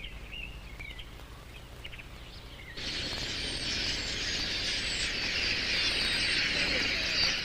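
Wild birds: a few faint calls, then about three seconds in a loud, dense chorus of chirping sets in and keeps going.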